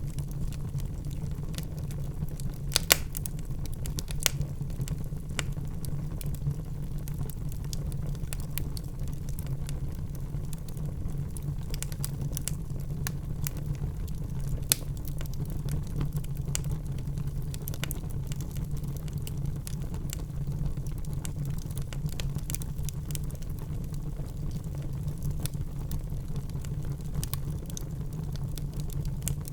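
Burning logs crackling in a fireplace: scattered sharp pops and snaps over a steady low rumble of the flames, with a few louder pops about three, four and fifteen seconds in.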